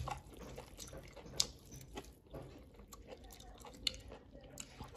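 Quiet chewing of baked scallop meat and glass noodles, with faint scattered mouth clicks and small ticks.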